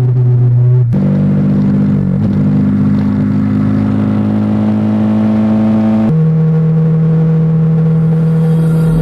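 Bajaj Dominar 400's single-cylinder engine running under way at steady revs, its pitch jumping suddenly about a second in and dropping suddenly again about six seconds in, creeping slowly up in between.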